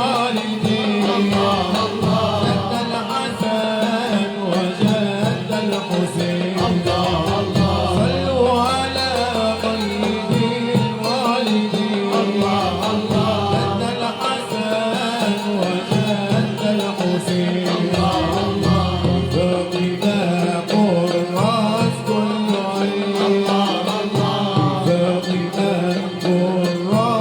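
Malouf ensemble performing: voices singing a wavering melodic line over instrumental accompaniment with a held low drone.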